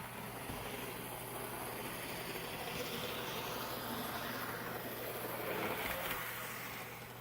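N scale EMD F59PHI model diesel locomotive running around the layout at about 35% throttle: a steady whir from its small DC motor and wheels on the track, with a low steady hum, swelling slightly midway and fading near the end.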